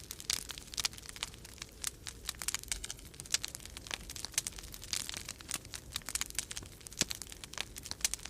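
Wood fire crackling and popping in a fireplace: dense, irregular sharp snaps, over a low steady rumble of storm wind.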